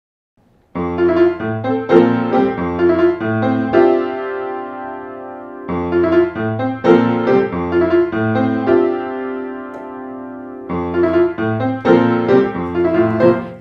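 Piano introduction to a song. It starts a moment in and plays struck chords in a lively rhythm, in three phrases, each of the first two ending on a held chord.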